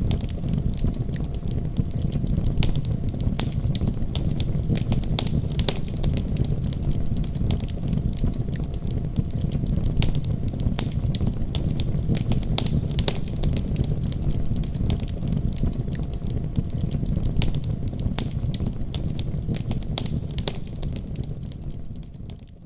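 Fire burning in a fireplace: a steady low rush of flames with frequent sharp crackles and pops. It fades out near the end.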